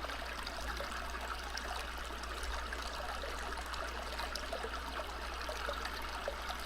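Background nature recording of a stream: water trickling and babbling steadily over stones.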